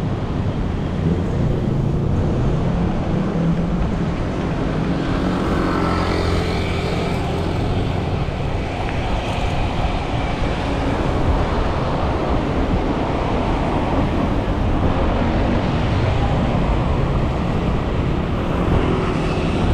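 City road traffic: motor vehicles running and passing close by, with a dense, steady low rumble and an engine note that comes and goes in the first half.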